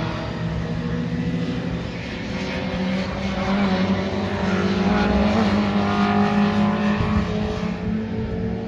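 Classic pre-1966 touring car engines running hard at racing speed, several engines heard at once, their pitch rising and falling.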